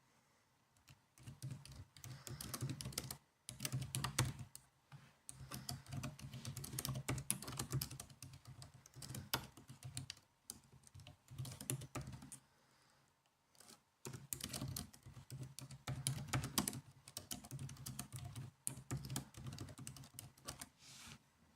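Typing on a laptop keyboard: runs of quick keystroke clicks broken by short pauses.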